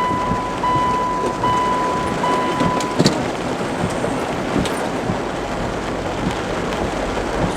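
Heavy downpour and road noise heard from inside a moving car, a steady wash of rain. Over it an electronic beep sounds four times in a row, about once a second, stopping about three seconds in.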